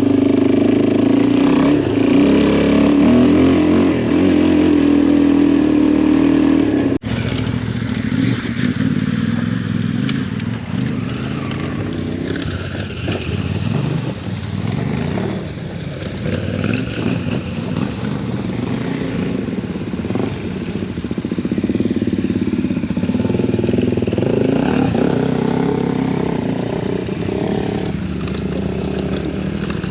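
Adventure motorcycle engine running while riding a rough dirt track, steady at first, then a sudden break about seven seconds in, after which the revs rise and fall with the throttle and the engine is quieter.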